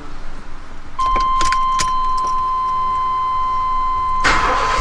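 Keys clicking at the ignition of a GMC Jimmy, then a steady high tone comes on about a second in. Near the end the starter cranks and the freshly rebuilt engine fires up; the starter has just been shimmed to stop it chattering.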